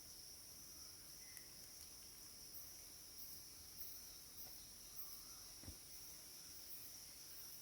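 Faint insect chorus trilling steadily at a high pitch, with a single soft knock about five and a half seconds in.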